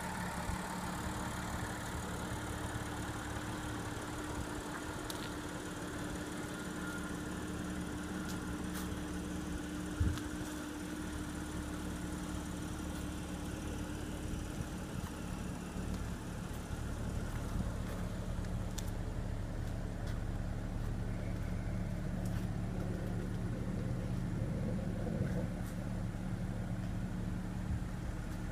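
Audi A7's supercharged 3.0 L V6 idling steadily, a smooth even hum. A single short thump about a third of the way through.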